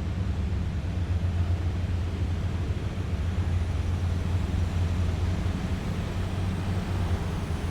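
Engines of heavy military vehicles running as they pass in a column, a steady deep drone.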